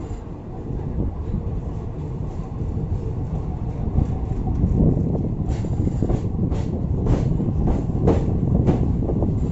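Passenger train running on the track: a steady low rumble that builds, with sharp wheel clicks over rail joints about twice a second from about halfway through.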